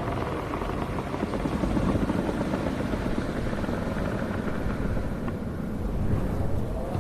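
Strong wind gusting with a deep, buffeting rumble. A wavering, whistling howl fades out at the start and comes back near the end.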